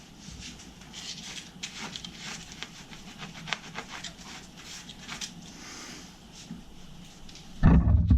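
Hot flux and solder crackling and sizzling on the heated steel of a water heater tank around the soldered leak, in a dense run of irregular little pops. A loud low thump comes near the end.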